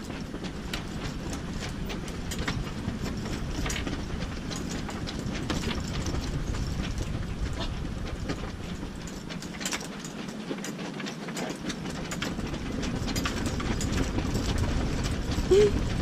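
Steady low rush of storm wind with many scattered clicks and knocks, growing slowly louder toward the end.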